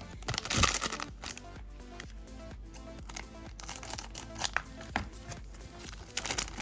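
Foil trading-card booster pack being torn open and crinkled by hand, in bursts of crackling: the strongest near the start, more near the middle and just before the end.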